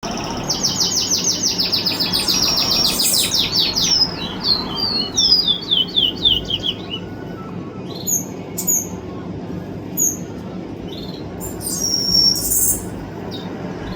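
A songbird singing: a fast trill of repeated high notes for about three seconds, slowing into a run of separate down-slurred notes, then a few single chirps and a short buzzy phrase near the end.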